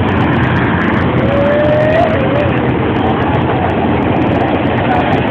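Freight train passing close by: a steady, loud rumble of wagons rolling on the rails.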